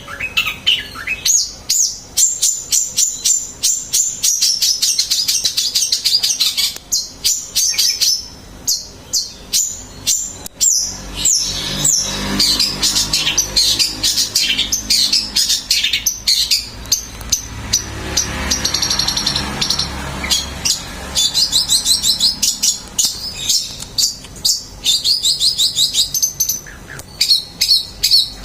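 Long-tailed shrike (cendet) singing: a fast, varied run of sharp high chirps and trills.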